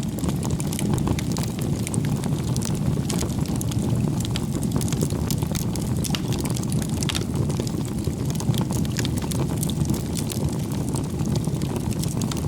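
Firewood bonfire burning: a steady low rushing of the flames with frequent sharp crackles and pops of the burning wood scattered throughout.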